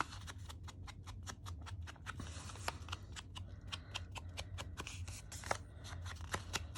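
Paper and card being handled: a steady run of small rustles, crackles and taps, a couple of them louder about two-thirds of the way through, over a low steady hum.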